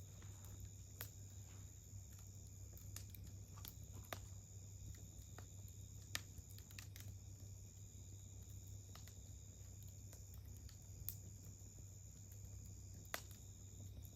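Wood fire crackling: sparse sharp pops and snaps from the burning wood, one every second or few, over a low steady hum and a faint steady high tone.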